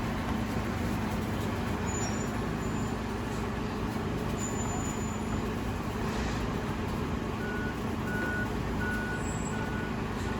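Garbage truck engine running steadily. About seven and a half seconds in, its reversing alarm starts beeping, about one and a half beeps a second.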